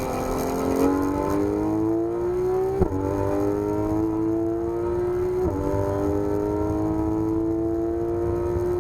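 Porsche 991 GT3 RS's naturally aspirated flat-six accelerating hard, pitch climbing steadily, with two quick upshifts about three and five and a half seconds in, each dropping the pitch before it climbs again.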